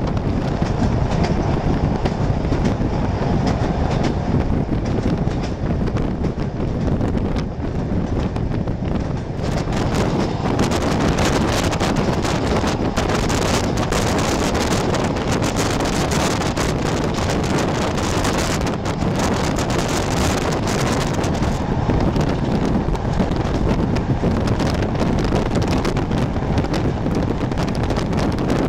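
Steady rumble and rushing of a moving passenger train, with wind buffeting the microphone. The hiss grows brighter and louder about a third of the way in.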